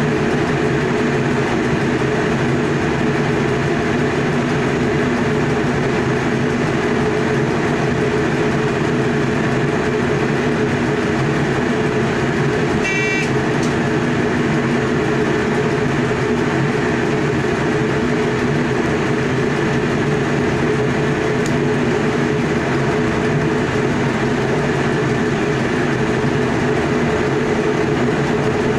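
Electric passenger train running steadily at speed, heard from inside the driver's cab as an even rumble of wheels on rail with a low steady hum. A short high-pitched ring sounds once, about halfway through.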